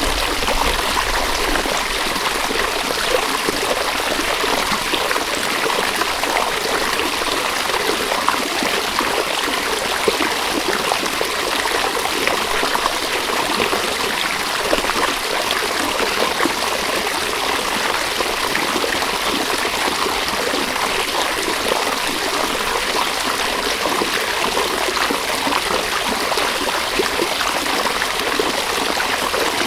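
River water flowing and babbling over stones, a steady splashing rush.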